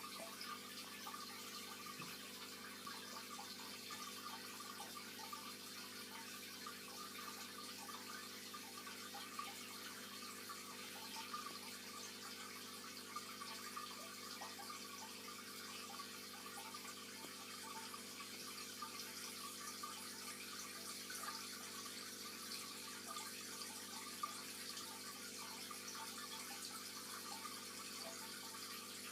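Steady trickle of running aquarium water with a constant low hum underneath, typical of a tank's circulating filter or pump.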